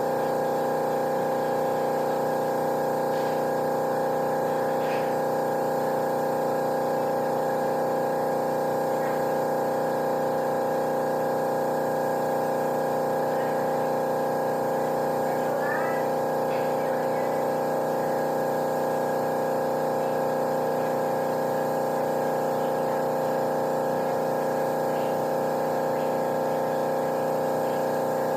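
Steady machine hum made of several fixed tones, running at an even level without change.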